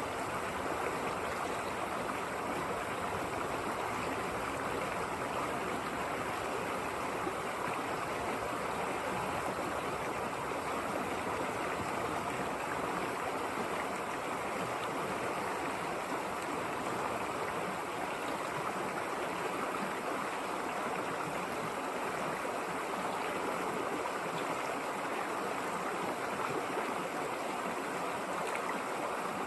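A flowing river or stream rushing steadily over rocks, an even, unbroken sound of water.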